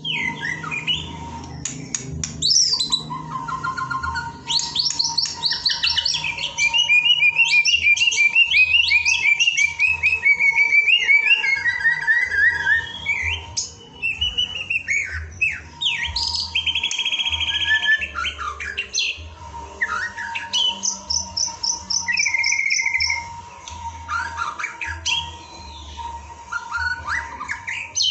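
White-rumped shama singing a long, varied song of rapid trills, quick repeated notes and loud whistled glides, the kind of recording played to prompt a caged shama to sing. A faint steady tone runs beneath it.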